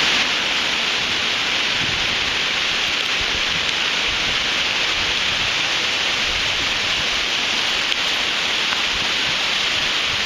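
Steady, even hiss of rain during Hurricane Sandy, with storm wind behind it.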